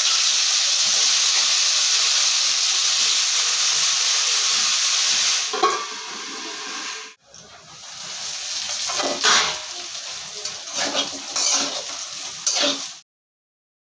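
Diced potatoes sizzling loudly as they hit hot oil in a metal kadai; a little over five seconds in, a metal lid goes on with a clank and the frying drops lower. Then a metal spatula scrapes and stirs the frying potatoes in the pan in short strokes, until the sound cuts off about a second before the end.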